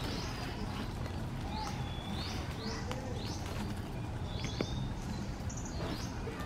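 Birds chirping: short, high calls that sweep up and drop, repeated several times, over a steady low rumble.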